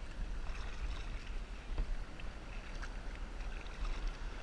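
Water lapping and small splashes around a kayak on calm sea, over a steady low rumble of wind on the microphone.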